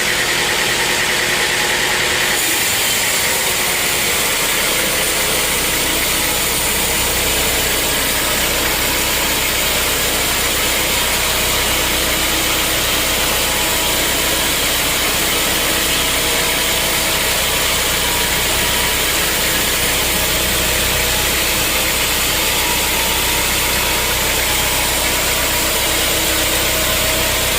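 Sawmill machinery running with a steady, loud engine-like drone. A high tone stops about two seconds in, and the low hum grows stronger a few seconds later.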